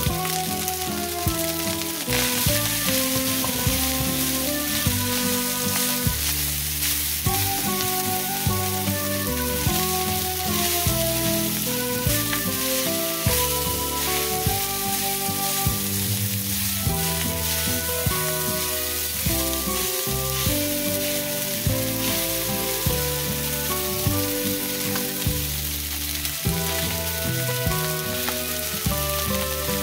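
Rice and egg sizzling in a hot stainless steel frying pan, stirred and scraped with a spatula, with many small clicks and scrapes over a steady hiss. Background music plays throughout.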